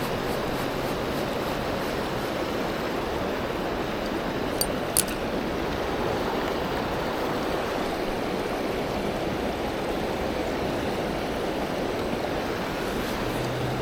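Steady rush of river water flowing over rocks, with two brief sharp clicks about five seconds in.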